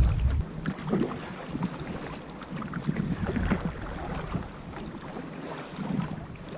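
Sea water splashing and sloshing irregularly around a sea kayak as it is paddled through swell. Wind rumbles on the microphone for the first half second, then drops away.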